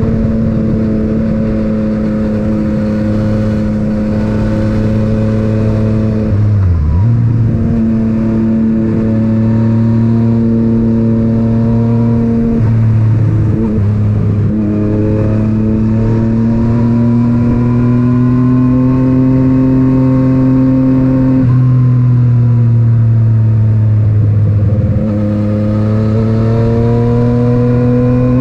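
Yamaha MT-09's inline-three engine through an Akrapovic titanium exhaust, heard on board while riding. The engine note holds fairly steady, climbs slowly at times and drops briefly several times.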